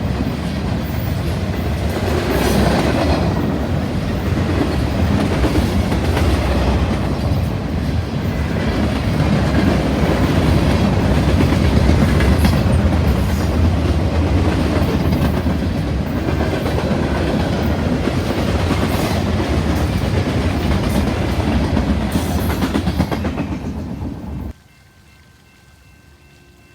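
A train passing close by, its cars rolling over the rails with a steady rumble and clickety-clack of wheels over rail joints. The sound cuts off abruptly near the end, leaving a much quieter background.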